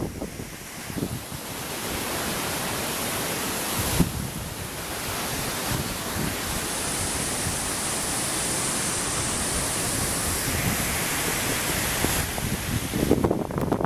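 Strong gust-front wind rushing steadily, with low buffeting on the microphone near the start and again near the end.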